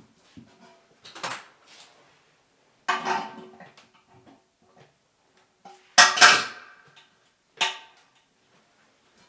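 Metal hand tools and hardware clinking and clattering: about four sharp clatters, the loudest around six seconds in, while the toilet tank's bolt nuts are tightened with channel-lock pliers.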